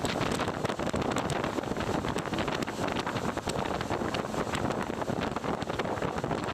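Strong wind buffeting the microphone: a loud, crackling noise that cuts off suddenly at the end.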